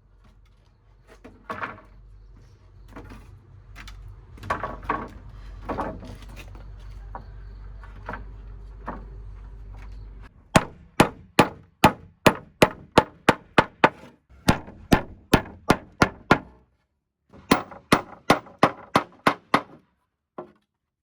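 Hammer striking nails into wood. At first there are scattered knocks and handling, then two runs of quick, even hammer blows at about three a second, with a short pause between them.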